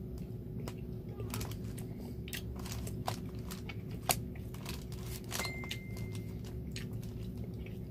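A person chewing a mouthful of food with the mouth closed: irregular wet mouth clicks and smacks, the sharpest about four seconds in, over a steady low hum. A brief faint high tone sounds about halfway through.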